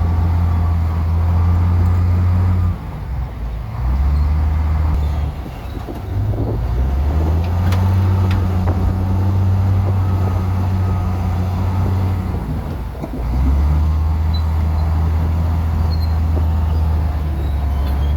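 Bulldozer's heavy diesel engine running under load, easing off and picking up again a few times as it works.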